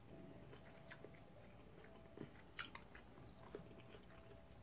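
Faint chewing of a meatball, with a few soft, sparse mouth clicks and smacks, close to near silence.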